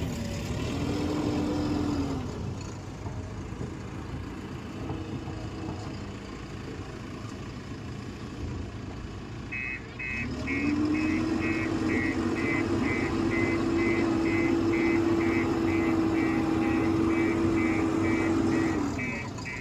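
JCB backhoe loader's diesel engine revving up, briefly near the start, then held at high revs for most of the second half while its reversing alarm beeps about twice a second.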